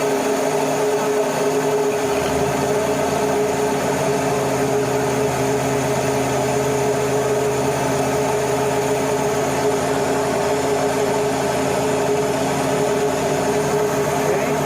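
Steady mechanical drone of shipboard machinery with several held tones; a low note shifts about two seconds in.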